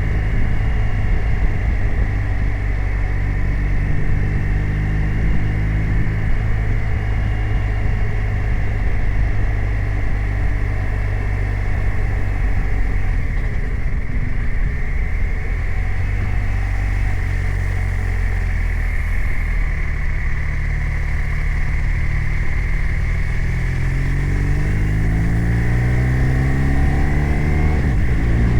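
BMW R 1250 RT's 1254 cc boxer twin engine running under way at steady, fairly low revs, then rising in revs near the end as the bike accelerates.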